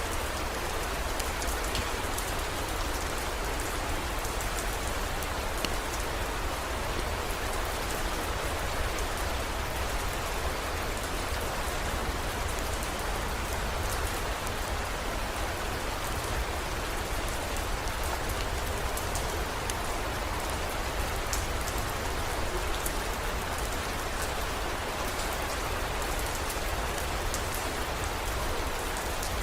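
Heavy rain falling steadily, with scattered small drop ticks and a steady low rumble underneath.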